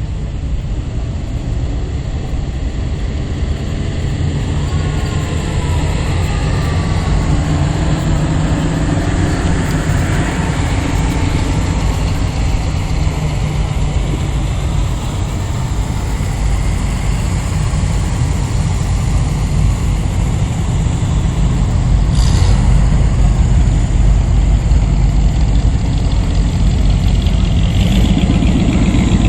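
Car engines idling and running at low speed as several cars move past, getting louder during the last few seconds.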